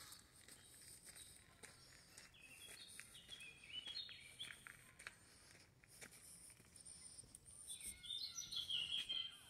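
Faint birdsong outdoors: quick series of high chirping notes, once about three seconds in and again, louder, near the end, over faint background hiss.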